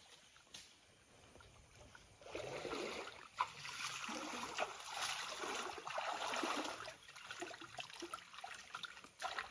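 Water splashing and trickling. It is faint for the first two seconds, then runs steadily from about two seconds in and eases off near the end, with a few small clicks.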